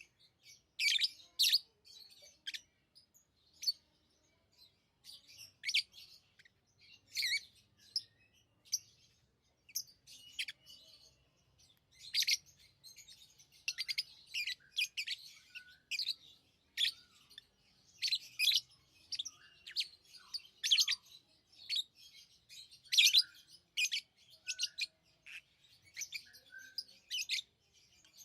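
Pet lovebirds chirping: many short, sharp, high-pitched chirps in irregular bursts, busier in the second half.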